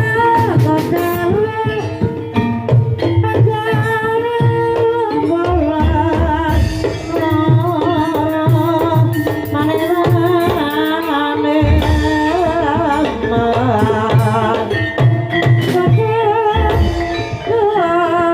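Javanese gamelan music for a kuda kepang (ebeg) dance: a singer's wavering vocal line over sustained metallophone tones and steady kendang hand-drum strokes.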